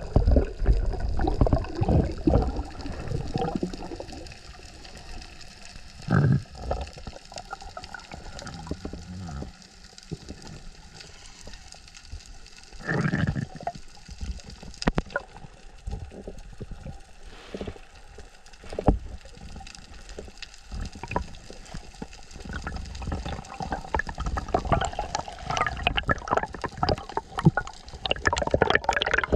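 Water heard through an underwater camera during a freedive: rushing and gurgling, fuller near the start and again near the end, quieter in the middle with a few short louder bursts.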